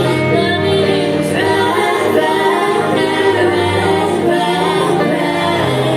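Female pop vocal group singing live, several voices together in harmony.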